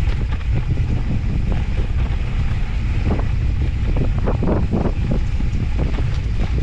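Wind buffeting the microphone of an off-road handcycle riding a mountain-bike trail, with a run of short knocks and rattles from the bike going over rough ground about three to five seconds in.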